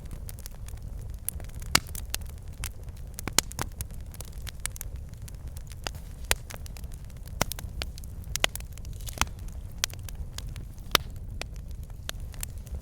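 Wood fire burning in a fireplace: logs crackling and popping in sharp, irregular snaps over a steady low rumble of flame, with a few louder pops.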